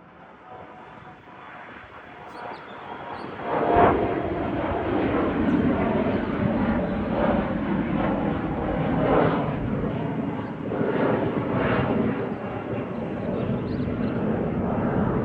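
Embraer E175 regional jet's twin GE CF34-8E turbofan engines at takeoff power. The sound grows louder over the first few seconds, then holds as a loud, steady jet rush with a low rumble.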